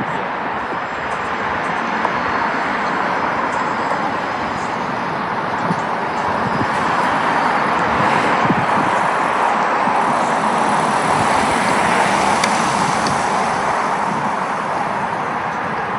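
Airbus A320 airliner on its landing approach: a loud, steady rush of jet noise that swells a little in the middle and eases slightly near the end.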